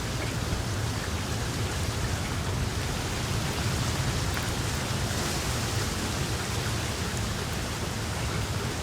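Small wood fire burning in a fireplace: a steady hiss with the occasional faint crackle of the burning wood.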